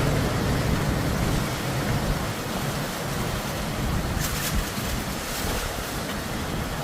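Typhoon wind blowing hard, a steady rush with a heavy low rumble of wind buffeting the microphone, and brief hissing gusts about four and five seconds in.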